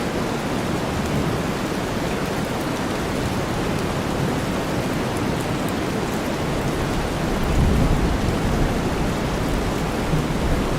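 Steady rain mixed with deep white noise, a dense even hiss. A low rumble swells up about seven to nine seconds in.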